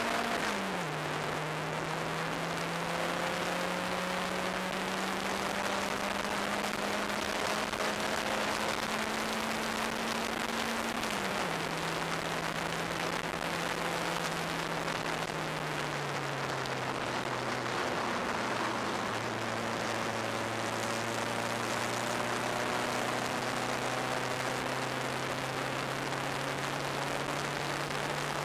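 Turbocharged track car's engine running at speed, heard onboard from the open cockpit, under a steady rush of wind and road noise. The engine note creeps up, then drops in pitch in two steps, about 11 and 16 seconds in, and holds lower for the rest.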